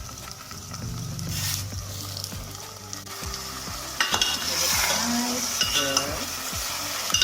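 Onions and chicken frying in hot mustard oil in a pot, stirred and scraped with a spoon; the sizzling jumps louder about four seconds in.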